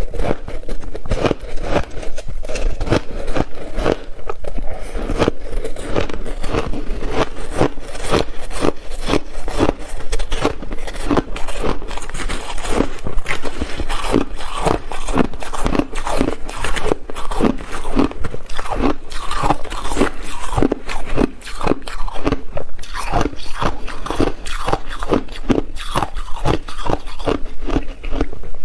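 Ice being bitten and chewed close to the microphone: a continuous run of crisp crunches with some scraping, several strokes a second.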